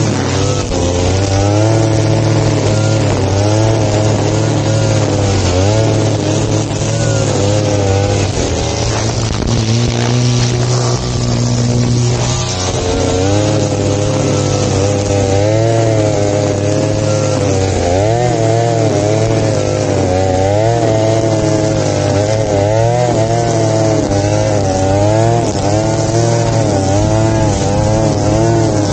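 Small petrol engine of a grass-cutting machine running continuously, its pitch wavering up and down repeatedly as it works.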